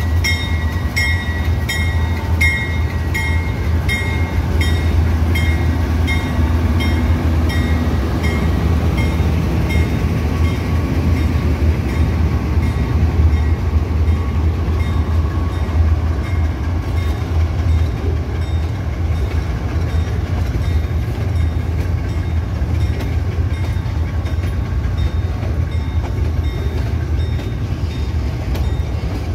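Two GE U20C diesel-electric locomotives passing slowly with a deep steady engine rumble, then loaded tank wagons rolling by. A high chirp repeats about twice a second and fades out over the first ten seconds or so.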